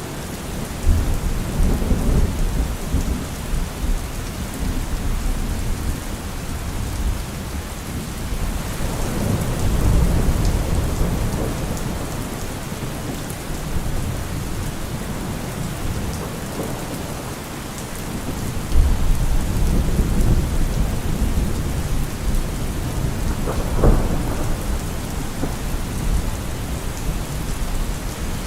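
Steady rain falling, with thunder rumbling low several times. One sharper crack of thunder comes about three-quarters of the way through.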